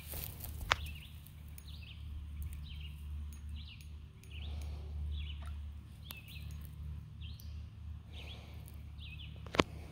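A bird chirping over and over, short high calls about once a second, over a steady low rumble, with a sharp click about a second in and another near the end.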